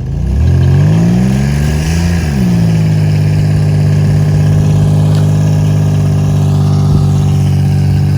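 A Buick's engine revving under load as it tows a heavy engine out of a pond on a line: the revs climb for about two seconds, drop sharply, then hold steady and high while the wheels spin.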